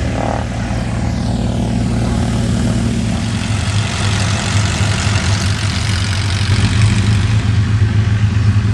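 Propeller aircraft's piston engine running steadily, a low drone that grows a little louder over the second half.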